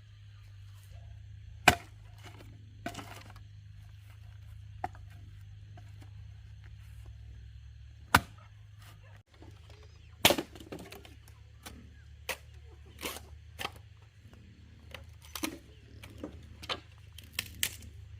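Sharp wooden knocks and cracks of firewood being worked, over a low steady hum. A few loud knocks come several seconds apart, then a quicker run of lighter ones near the end.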